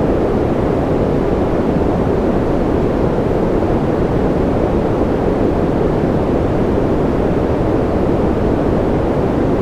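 Steady noise track for sleep: an even, deep hiss-like rumble that never changes, weighted toward the low end and with little treble.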